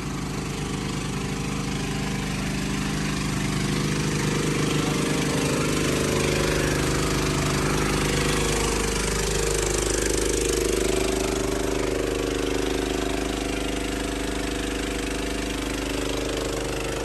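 Vehicle engine running steadily while driving along, its note easing down a little about nine seconds in, with wind and road noise over it.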